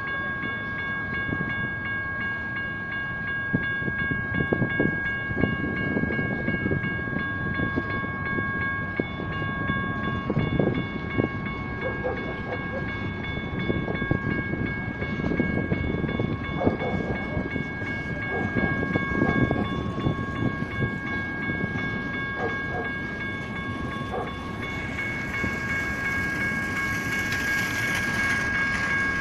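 Freight cars rolling through a grade crossing, their wheels rumbling and clattering unevenly, while the crossing's General Signals Type 1 electronic bells ring steadily. A hiss grows over the last few seconds.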